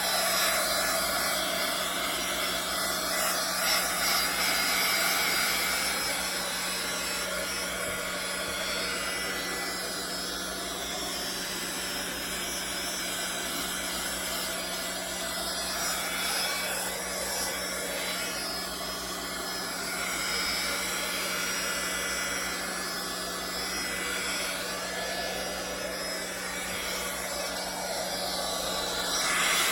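A handheld electric blower running steadily: a rushing airflow with a motor hum under it.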